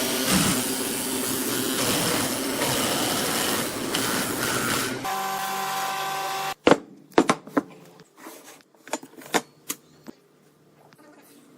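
A power tool runs with a loud, coarse noise for about five seconds, then stops abruptly. A steady hum follows briefly, then a series of sharp knocks that trail off.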